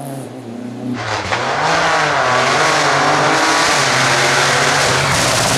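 Rally car driven hard, its engine pitch rising and falling as the driver works the throttle and gears. About a second in it gets much louder and a strong hiss of tyre and road noise joins it.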